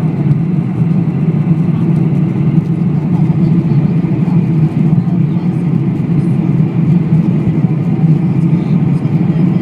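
Steady jet airliner engine and airflow noise, heard from inside the cabin as the aircraft climbs after take-off; it holds an even level throughout.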